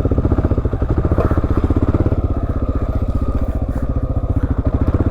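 Motorcycle engine running slow and steady, with a rapid, even beat.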